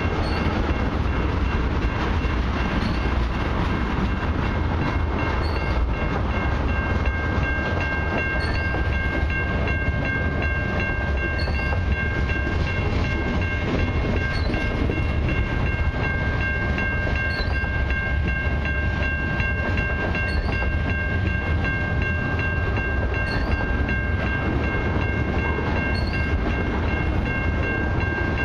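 Freight train's tank cars and covered hoppers rolling past close by: a steady rumble and rattle of wheels on rail, with a steady high-pitched tone held over it.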